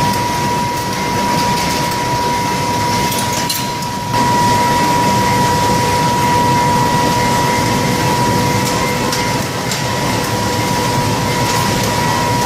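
Industrial blower running steadily: a loud rush of air with a steady high whine over it, getting a little louder about four seconds in.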